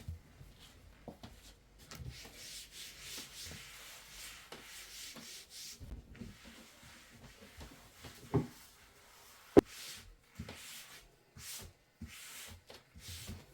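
Rubbing or wiping on a surface in hissy scraping strokes, with a few knocks, a heavier thud past the middle and one sharp click soon after.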